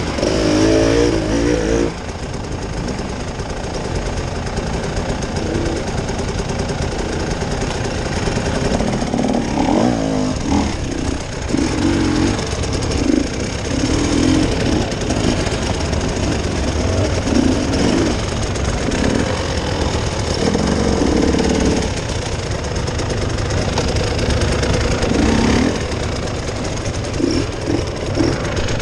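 Off-road vehicle's engine running steadily while driving over rough ground, with a continuous low rumble and juddering noise.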